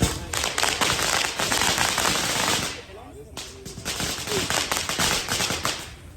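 A string of firecrackers going off in rapid crackling pops: one long run for nearly three seconds, a short break, then a second run of about the same length.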